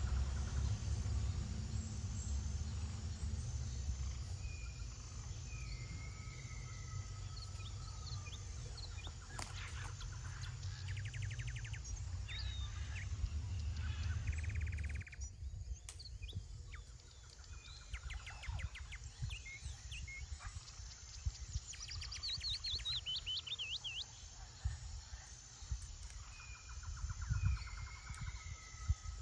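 Wild birds chirping and trilling at intervals, with a fast wavering trill a little after the middle. Under them, a low rumble for the first half stops abruptly about halfway through.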